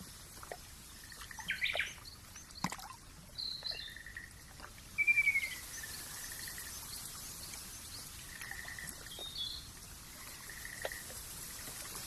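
Birds calling: a whistled note that slides downward, heard about five seconds in and again at the very end, alternating with short level whistles and a few higher chirps, over a steady high hiss. A few faint clicks are scattered through.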